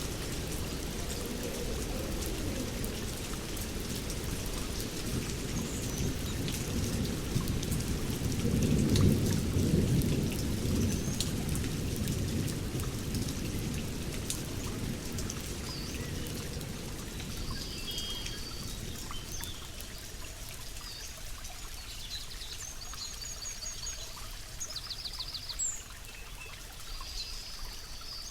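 Steady rain falling, with a low rumble of thunder that swells about a third of the way in and then fades. In the second half, birds call over the rain with short chirps and trills.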